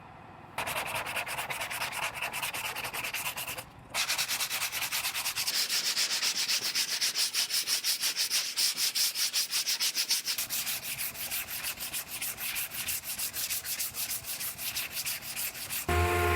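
Hand sanding of a car body panel: quick, even back-and-forth scraping strokes, about five a second, with a brief pause about four seconds in.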